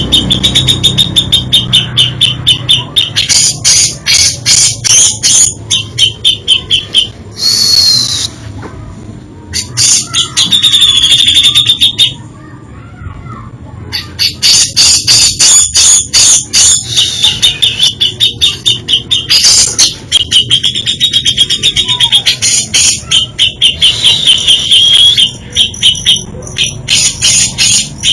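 Cucak jenggot (grey-cheeked bulbul) singing loudly in long runs of rapid chattering notes and high trills, a varied song of borrowed phrases. It breaks off briefly twice along the way.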